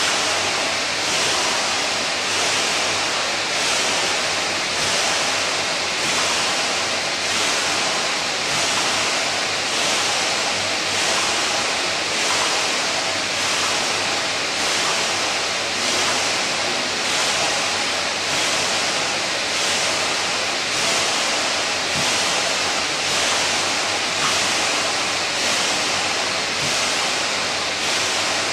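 Kayak ergometer's flywheel whooshing steadily under continuous paddling, the rush swelling about once a second with each stroke.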